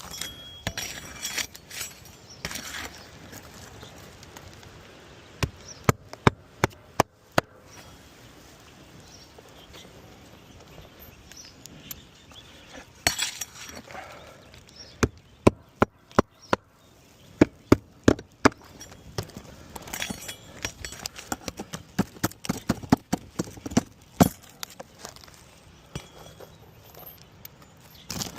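Hammer driving roofing nails into asphalt shingles: several runs of quick, sharp strikes, with softer scraping between the runs.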